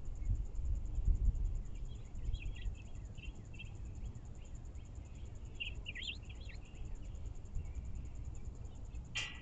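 Outdoor backyard ambience: a steady, high-pitched insect trill runs throughout, and a small bird gives a series of short chirps and twitters in the middle, loudest about six seconds in.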